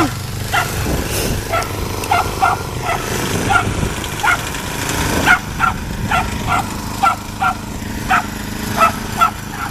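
A dog barking over and over, short sharp barks coming about one to two a second, with a steady low hum underneath.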